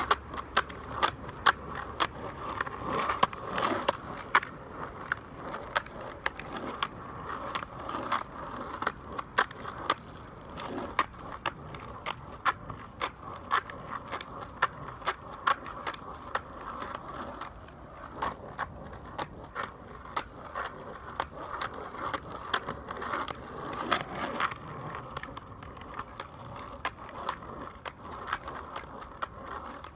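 Skateboard rolling over rough pavement: a steady wheel rumble broken by many sharp clicks and knocks.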